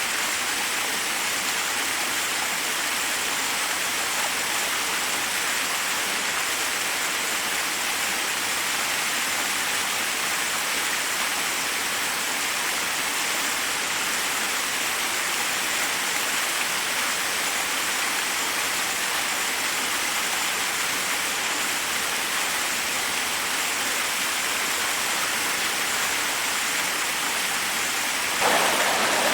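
Forest waterfall, water rushing steadily over rocks. About a second before the end it suddenly turns louder and brighter.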